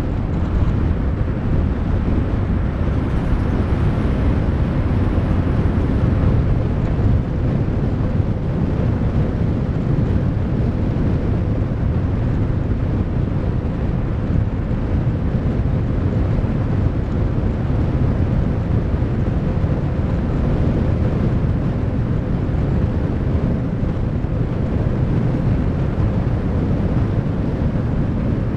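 Steady rumble and wind rush of a slow vehicle travelling along a road, with a faint steady whine running underneath.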